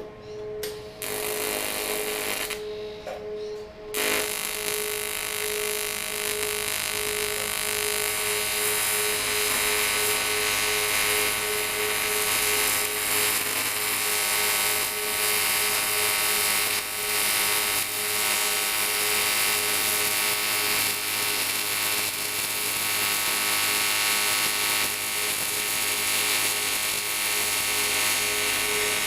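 AC TIG welding arc on cast aluminium, buzzing steadily. It comes on briefly about a second in, then holds steady from about four seconds in.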